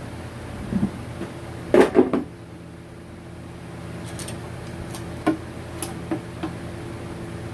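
Several knocks and clatters of objects being handled, loudest in a cluster about two seconds in, with lighter clicks later, over a steady low hum.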